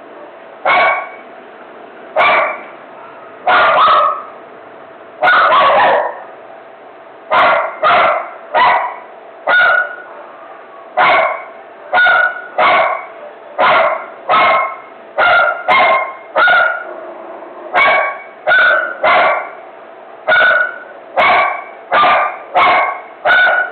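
A dog barking over and over, about one sharp bark a second, some coming in quick pairs, over a faint steady hum.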